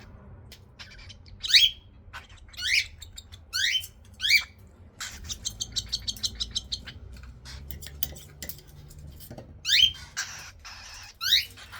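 Baby cockatiel chicks giving food-begging calls: short sharp chirps about once a second, with a rapid stuttering run of calls in the middle.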